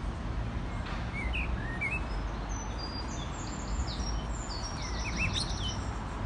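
Small songbirds chirping and singing in many short, high notes, some rising and falling, over a steady low rumble.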